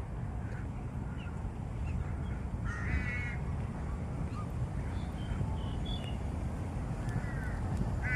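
A crow cawing: a harsh call about three seconds in and another near the end, with small high bird chirps in between, over a steady low rumble.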